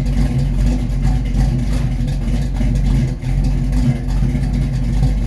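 Car engine idling steadily as it warms up after its first cold start of the season, with a brief dip in loudness about three seconds in.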